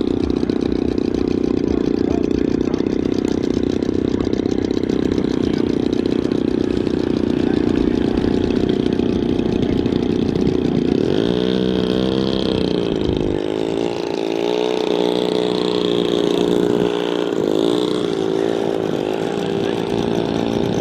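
Moki radial engine of a large-scale RC Corsair running: a steady drone for about the first ten seconds, then its pitch swings up and down several times.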